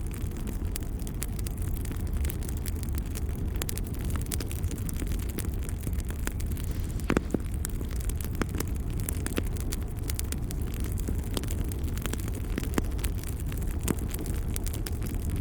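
Fireplace fire crackling, with scattered sharp pops over a steady low rumble, and one louder pop about seven seconds in.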